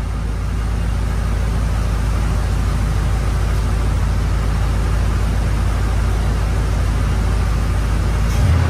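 A 1988 Chevrolet box Chevy's engine idling steadily with a loud, even low hum.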